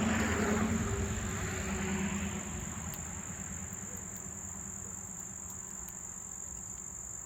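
Crickets trilling in a steady, continuous high chorus. A low rumble fades out over the first couple of seconds.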